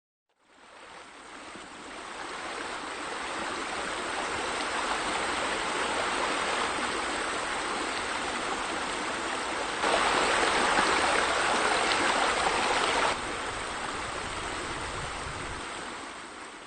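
Water splashing and running steadily from a swimming pool's water features. It fades in at the start, gets clearly louder for about three seconds in the middle, then drops back and fades out near the end.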